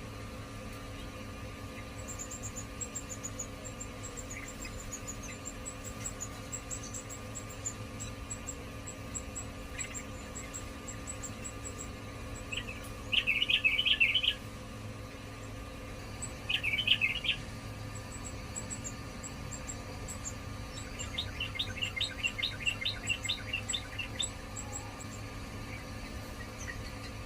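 Yellow-vented bulbul calling: two short, loud bursts of chattering notes about halfway through, then a longer run of quick notes near the end, over faint high thin chips and a steady low hum.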